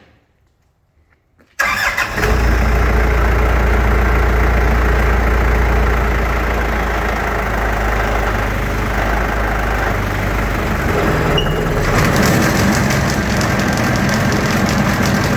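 Engine of a Vermeer BC1000XL brush chipper starting up, catching suddenly about a second and a half in and then running steadily. About twelve seconds in it grows a little louder.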